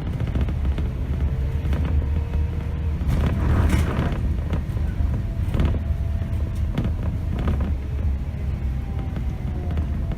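2008 Scania K270 city bus's five-cylinder diesel running under way, a steady low drone with a faint whine that slowly shifts in pitch. A few short knocks and rattles come through in the middle.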